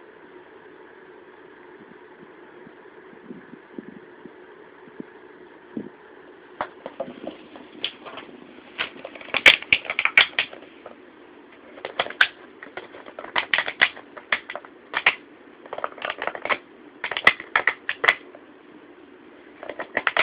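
Plastic water bottle crackling and clicking in quick bursts as a cat chews on it, starting about six seconds in, over a steady background hum.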